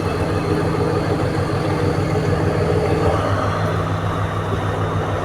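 Diesel engine of a Class S12 diesel-electric power coach running with a steady low hum that does not change.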